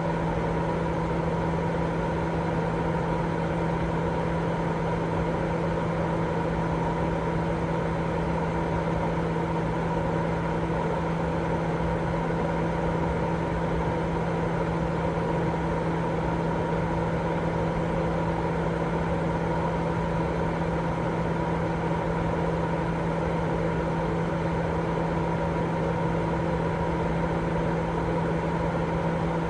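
Continuous white noise for sleep: an even, unchanging hiss, weighted toward the low and middle range, with a steady low hum underneath.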